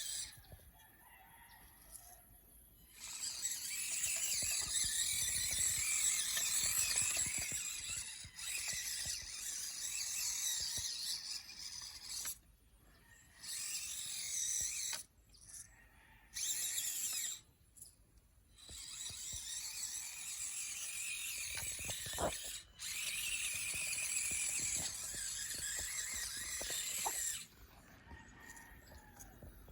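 A radio-controlled truck's motor and drivetrain whining high in repeated bursts of throttle, some lasting several seconds, with short pauses between.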